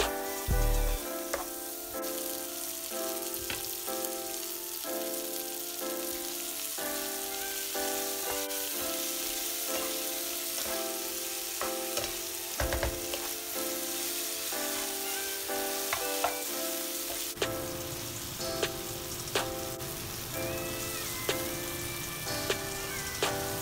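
Cauliflower, carrot and onion sizzling in oil in a non-stick frying pan, stirred with a spatula that scrapes and taps against the pan now and then. The sizzling grows fuller about two-thirds of the way through.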